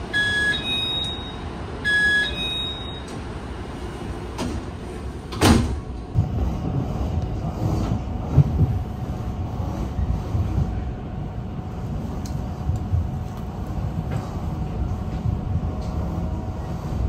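A train's door-warning chime, a two-note electronic signal, sounds twice. About five seconds in the sliding passenger door shuts with a single loud thud. After that comes the steady low rumble and clatter of the train running.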